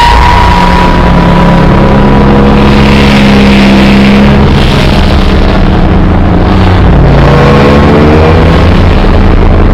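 Constant, very loud, harsh distorted noise with several droning low tones that drift slowly in pitch, and a thin higher tone in the first few seconds.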